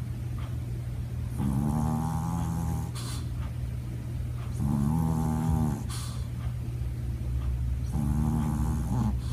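Sleeping dog snoring: three drawn-out pitched snores about three seconds apart, each ending in a short breathy puff, over a steady low hum.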